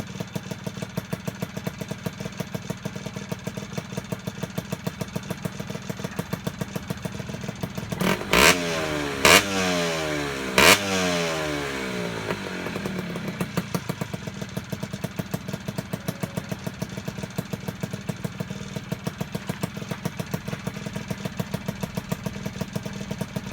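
1988 Yamaha TDR80's single-cylinder two-stroke engine idling with a steady pulsing beat, running after a top-end and carburettor overhaul. About eight seconds in, the throttle is blipped three times, the revs rising sharply and dropping back to idle.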